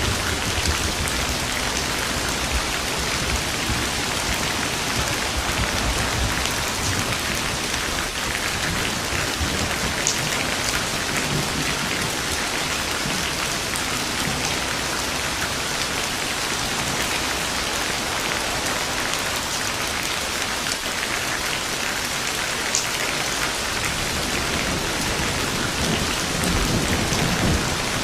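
Steady heavy rain falling, with low rolling thunder rumbling at the start and again near the end.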